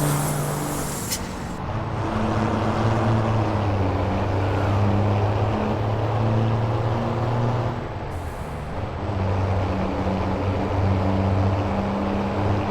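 Scania V8 diesel truck engine running with a steady low drone. A high hiss of air cuts off about a second in, and the engine sound dips briefly about eight seconds in.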